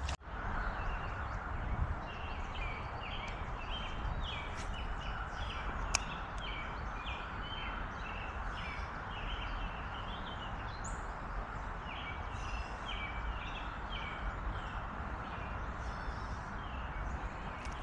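A bird calling in a long string of short, repeated chirps, pausing once midway, over a steady outdoor hiss of wind or moving water.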